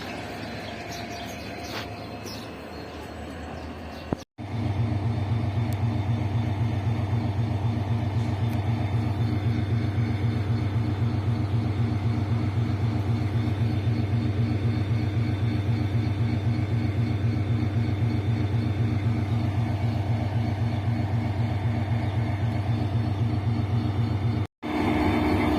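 Diesel locomotive engine running at a steady low drone with a deep, even hum, following a few seconds of quieter rail and station noise with light clicks. The sound drops out briefly twice, about four seconds in and near the end.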